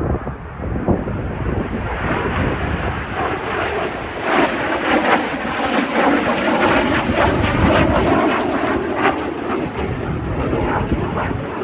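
F-86 Sabre jet fighter's single turbojet engine roaring in a display pass, with a crackling edge. It grows louder about four seconds in and eases a little near the end.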